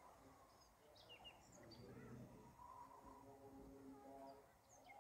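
Near silence, with a few faint, high bird chirps in the background.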